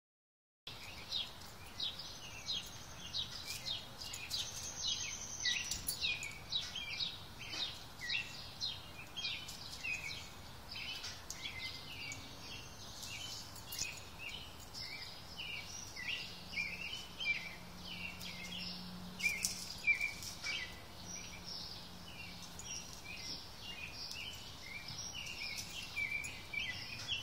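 Small birds chirping, many short downward-sliding chirps overlapping in a busy, irregular stream.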